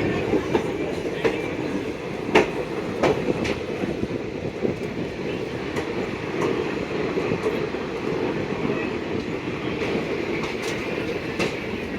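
Passenger train running along the track: a steady rumble of wheels on rails with clacks at irregular intervals as the wheels pass over rail joints, one sharper clack about two and a half seconds in.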